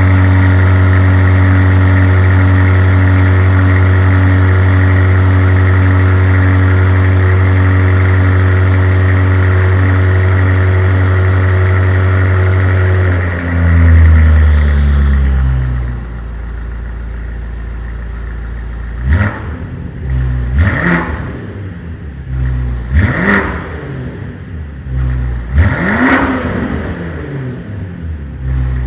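BMW M5 4.4-litre twin-turbo V8 sounding through a DCE catback exhaust with X-pipe and OPF delete, holding a loud, steady fast idle just after start-up. About 14 seconds in it swells briefly and settles to a lower idle, then takes four quick throttle blips, each rising and falling in pitch.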